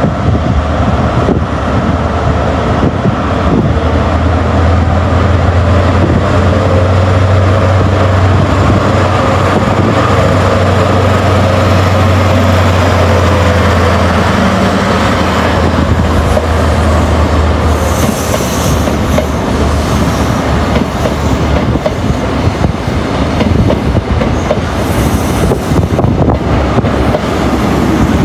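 A train running close by on the station tracks, wheels clattering over the rail joints, with a steady low hum that drops away about two-thirds of the way through.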